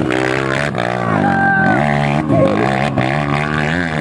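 Dirt-bike engine revving up and down over and over, its pitch dropping and climbing several times, as the bike labours up a steep hill climb.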